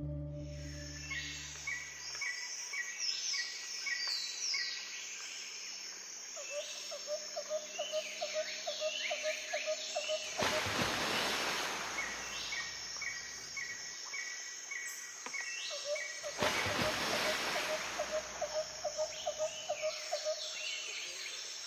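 Outdoor birdsong ambience: birds giving quick runs of repeated high chirps and a fast, even trill. Two bursts of rushing noise come about ten and sixteen seconds in.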